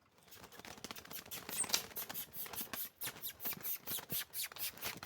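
Caged green-winged saltator (trinca-ferro) making a rapid run of soft clicking and scratchy notes, about six to eight a second, with a faint thin high note or two: quiet subsong rather than full song, the first after its molt.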